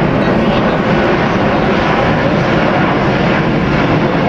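Airbus A340-600's four Rolls-Royce Trent 500 turbofan engines running at high power as thrust is applied for a steep climb: a loud, steady jet rumble.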